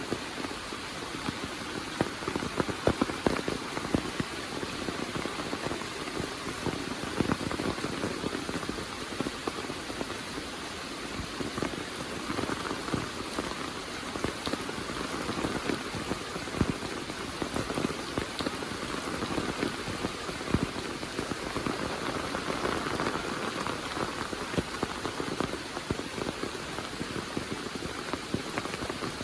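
Heavy monsoon rain falling steadily: a dense hiss with a close patter of drops hitting surfaces.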